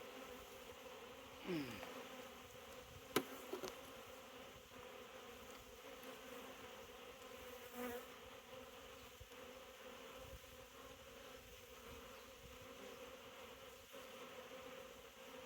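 Honeybees humming steadily from an open five-frame nuc hive, with a single sharp click about three seconds in.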